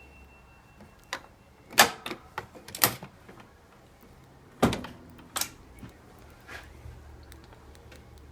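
A few sharp clicks and knocks: four loud ones in the first half and lighter taps later, from the 1976 JCPenney microwave being handled.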